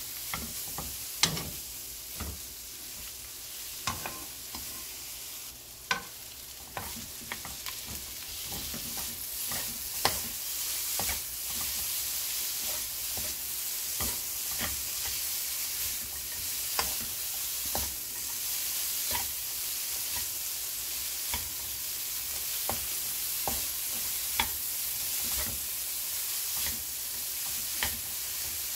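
Gochujang-coated dried squid strips sizzling in oil in a nonstick frying pan over medium heat, with frequent short clicks and taps of a spoon and chopsticks stirring and tossing them against the pan. The sizzle grows a little louder after several seconds.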